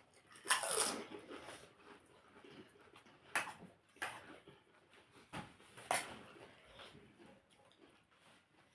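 Crisp, hollow puchka (pani puri) shells being bitten and chewed, giving several sharp crunches with quieter chewing between.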